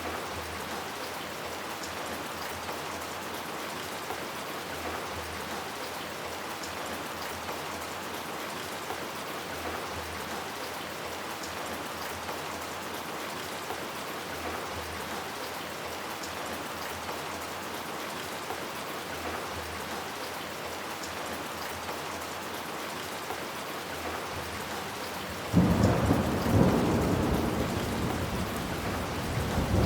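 Steady heavy rain falling. About 25 seconds in, a sudden loud clap of thunder breaks in and rolls on, fading slowly, with a second swell near the end.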